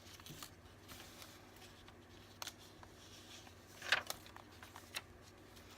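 Faint rustling and ticking of paper and card as a handmade junk journal's pages and tags are handled, with one louder rustle about four seconds in, over a low steady room hum.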